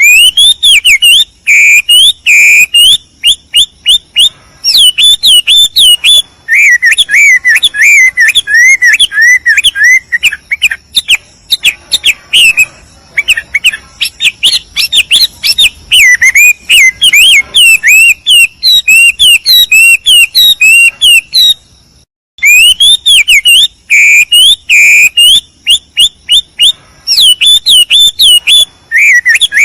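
A songbird singing a loud, rapid, varied song of quick whistled notes, slurs and chirps, almost without pause. The song breaks off briefly about two-thirds of the way through, then resumes.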